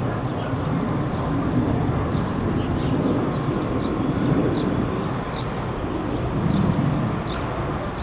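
Departing Boeing 737-700 jet airliner's CFM56-7B engines rumbling steadily as it climbs away after takeoff. Faint, short, high chirps sound over it now and then.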